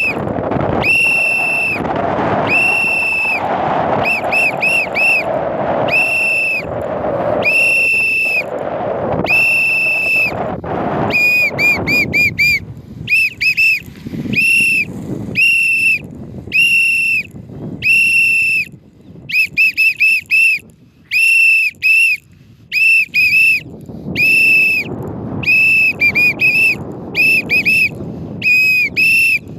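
A whistle blown over and over at one steady pitch, in long notes of about half a second and quick runs of three or four short blasts, a recall call for free-flying parrots. Wind rushes over the microphone for the first part, then drops away.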